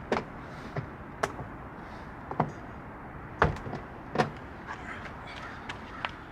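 Irregular sharp knocks and clicks, about half a dozen, the loudest about three and a half seconds in, from hands and tools working on a car's side skirt trim and its bolts.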